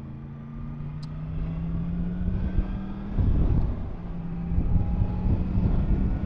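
Yamaha MT-10 SP's crossplane inline-four engine running under way, its note slowly rising in pitch and loudness, with wind noise on the microphone. About three seconds in the wind rumble jumps louder and the engine note breaks briefly before returning.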